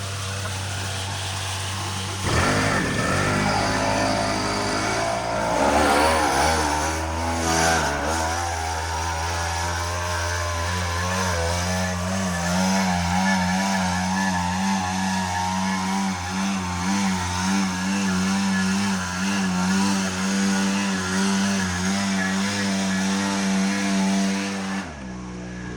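Small two-stroke engine of a brush cutter running steadily, its pitch wavering up and down as it cuts through grass, with a brief break near the end.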